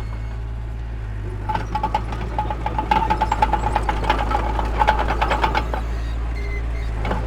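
Heavy earthmoving machinery's diesel engine running with a steady low drone. From about a second and a half in until past five seconds, rapid metallic clattering and rattling rides over it.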